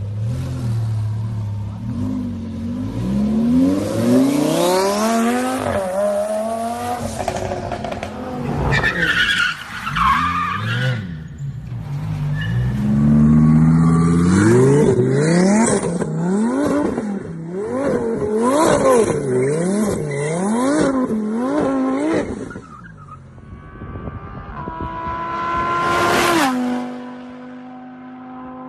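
Modified Lamborghini Huracán's V10 engine under hard acceleration, its pitch climbing through several rises, with tyre squeal. Then it is revved up and down about once a second while the car drifts. Near the end comes a quick rising sweep, then a steady higher-pitched tone.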